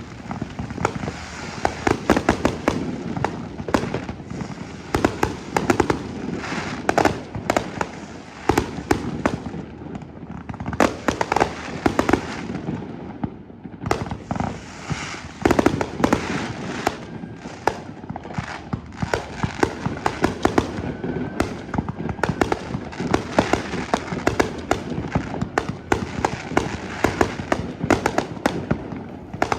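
Fireworks display: a dense, continuous barrage of bangs and crackling from shells and aerial fireworks bursting, with a brief lull about halfway through.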